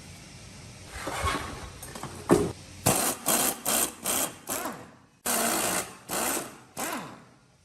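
A small power tool, such as a cordless drill or screwdriver, run in short repeated bursts, six quick ones then two longer ones that wind down, after a single loud knock.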